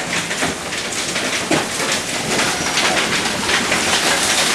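Hail and heavy rain pelting down, a dense, steady clatter of many small impacts.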